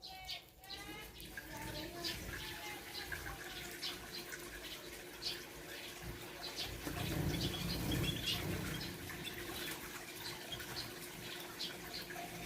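A mixed flock of small aviary birds chirping: many short, high chirps scattered throughout, with a few longer calls at the very start. A louder low rustle, like wingbeats or movement in the cage, comes a little past the middle.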